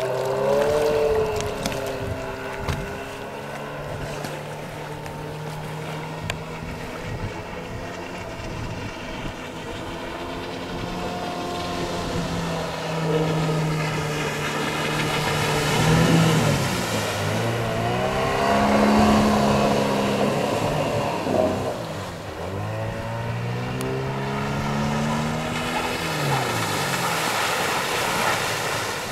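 Outboard motor on an inflatable PVC motorboat running at speed. Its engine pitch sweeps up and down as the boat passes by and turns, loudest around the middle.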